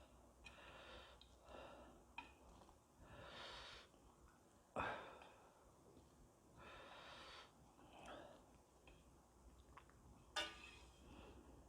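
Faint eating sounds of a person having a bowl of ramen: short breathy puffs and slurps about once a second, with two louder, sharper slurps, one about five seconds in and one near the end.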